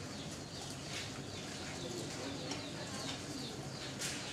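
Birds chirping: a busy run of short, falling high chirps, several a second, over a steady low hum.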